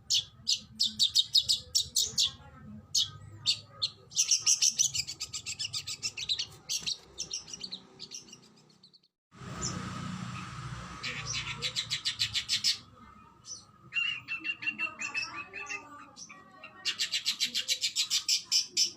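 Oriental magpie-robin (kacer) singing fast, rapid-fire runs of sharp high notes in repeated bursts, the 'tembakan' style prized in training recordings. The song breaks off for a moment about halfway through, and softer, lower twittering comes in near the end.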